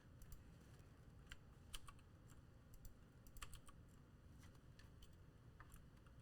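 Faint computer keyboard typing: scattered, irregular keystroke clicks over a low steady background hum.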